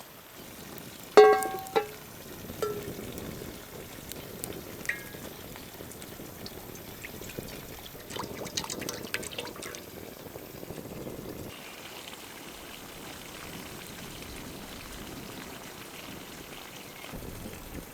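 Metal cookware struck by a utensil, ringing briefly about a second in with a second lighter clink just after, followed by scattered clinks and handling sounds of food preparation.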